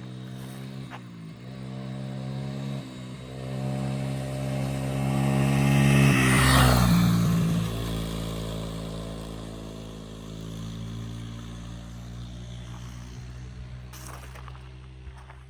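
A motorcycle engine accelerating, its pitch climbing in steps as it shifts up through the gears. It grows loudest about six seconds in, as it passes close by, then runs on steadily and gradually fades away.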